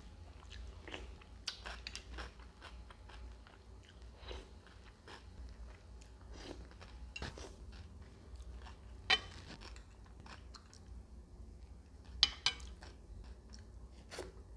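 Close-miked chewing and biting of food, with wet mouth clicks and crunches coming irregularly. A few sharper, louder crunches stand out about nine seconds in and twice near twelve seconds.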